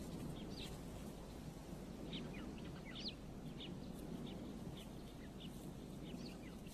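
Faint natural ambience: birds chirping in short high notes, about two a second, over a low steady hiss.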